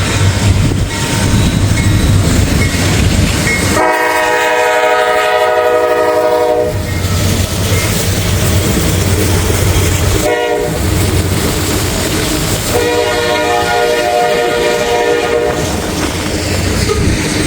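Norfolk Southern freight locomotive's air horn sounding at a grade crossing: two long blasts, one short, then a long one, in the standard crossing pattern. Under it runs the locomotive's heavy rumble, with wind buffeting the microphone.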